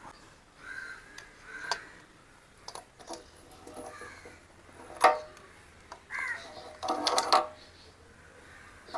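Sparse clicks and light knocks of hand tools working on a Royal Enfield Bullet 350 engine as its spark plug is taken out. The loudest knock comes about five seconds in, with a short cluster about seven seconds in.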